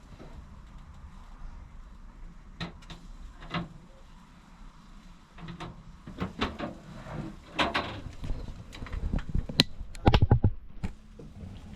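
Irregular knocks and clatters, sparse at first, growing busier in the second half and loudest in a quick cluster about ten seconds in.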